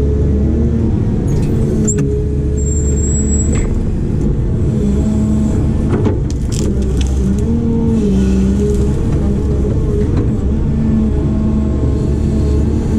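Heavy construction machine's diesel engine running under load, its pitch rising and dipping several times as the hydraulics work, with a few sharp knocks.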